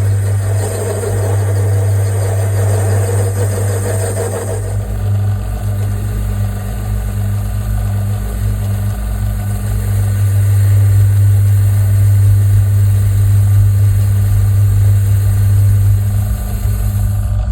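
Metal lathe running with a steady low motor hum while a shaft is turned down to 1/4 inch. A rougher cutting noise sounds over the hum for the first four or five seconds, then stops.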